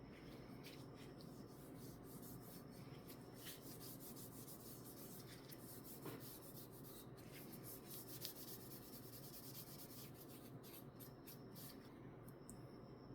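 Faint rubbing with scattered light clicks and ticks, one slightly louder about eight seconds in.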